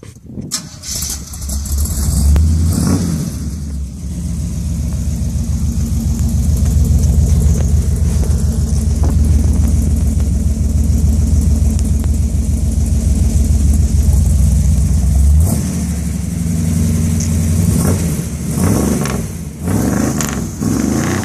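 A Chevrolet 454 big-block V8 in a 1978 Chevy C30 dump truck is revved through Hedman headers, MBRP resonators and true dual exhaust. The revs rise in the first few seconds and are held up for about ten seconds. Then the engine drops back and is blipped several times near the end.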